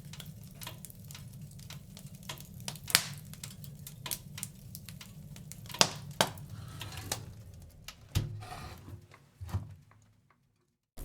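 Wood fire in a fireplace crackling, with sharp pops and snaps over a low steady rumble. The crackling thins out and drops to near silence about a second before the end.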